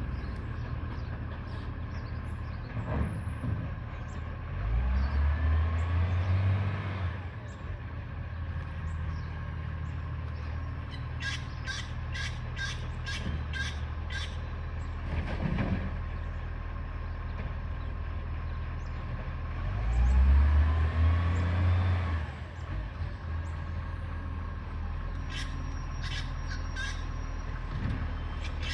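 Garbage truck's diesel engine running steadily, a truck with an exhaust leak. It revs up twice for a couple of seconds, rising in pitch, and runs of sharp clicks come about twice, at roughly three a second.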